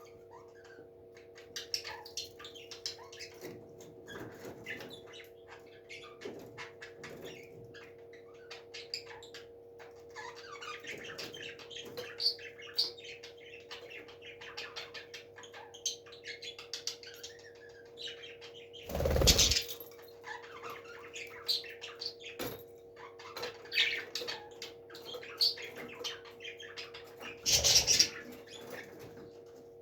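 Parrot chirping softly with many small clicks, over a steady hum. There are two louder harsh bursts, one about two thirds of the way through and one near the end.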